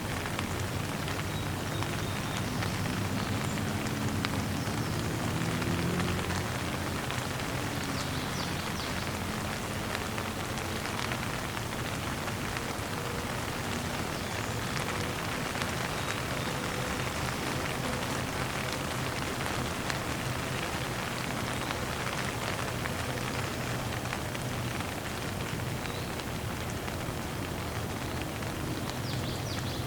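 Steady rain falling on a surface: a dense, even patter. A faint low drone rises and falls in the first few seconds.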